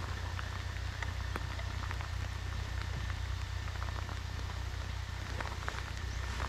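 Heavy rain falling on the water and the boat: a steady hiss full of scattered drop ticks, over a steady low rumble.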